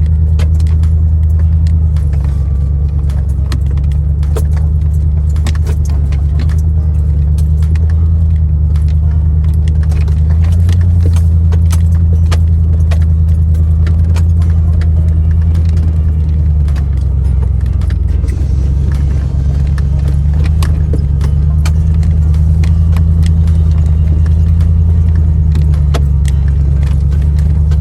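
4x4 vehicle driving a rough dirt trail: a steady low engine and road drone with constant clinking and rattling from loose gear in the cabin.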